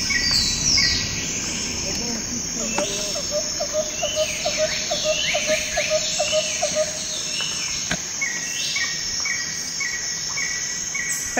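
Night insects, crickets among them, chirping steadily, with evenly repeated higher chirps and falling sweeps over the top. A quick run of lower pulses, about four a second, comes in a few seconds in and stops about halfway through.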